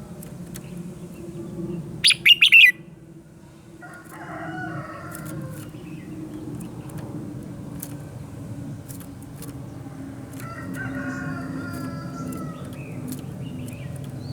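Red-whiskered bulbul singing: a short, loud burst of rapid high chirps about two seconds in, then two spells of warbling phrases, over a steady low background rumble.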